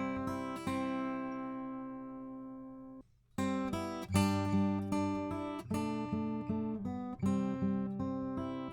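Acoustic guitar playing chords, recorded and run through a Warm Audio EQP-WA tube equalizer with its high-cut shelf engaged. One chord rings out and fades, the guitar stops for a moment about three seconds in, then picked and strummed chords resume.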